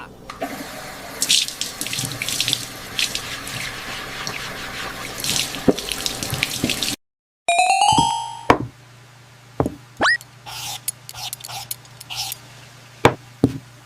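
Running water, like a tap filling a sink, for about seven seconds. After a short break come a chime and several quick rising swoop effects over a low steady hum.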